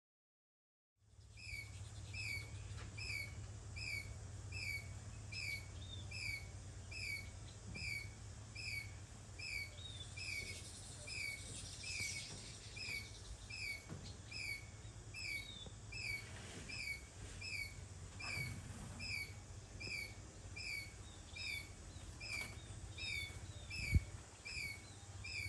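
A bird calling one short note over and over at an even pace, about three calls every two seconds, over a steady low background hum. A single thump sounds near the end.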